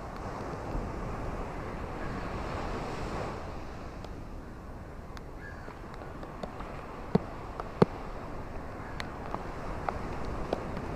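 Ocean waves washing on a shore in a steady hiss, one wave swelling and fading in the first few seconds. Scattered sharp clicks come in the second half, the two loudest about seven and eight seconds in.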